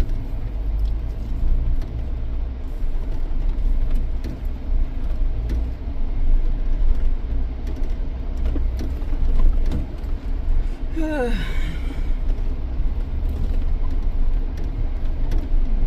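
Jeep's engine and drivetrain rumbling steadily inside the cabin as it drives a rough off-road trail. About eleven seconds in there is a brief sound that falls in pitch.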